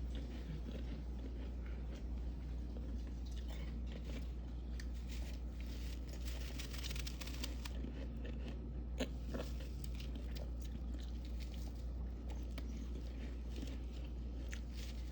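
Close-up biting and chewing of crispy freezer frost, a run of fine crunching and crackling, thickest in the middle, with one sharp snap about nine seconds in, over a steady low hum.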